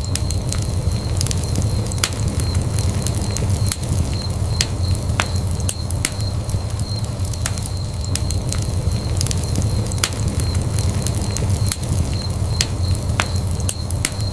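Wood fire burning in a fireplace: a low steady rumble with frequent sharp crackles and pops.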